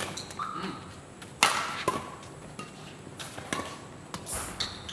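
Badminton rally: rackets strike the shuttlecock several times with sharp cracks, the loudest about a second and a half in, while court shoes squeak on the floor between hits.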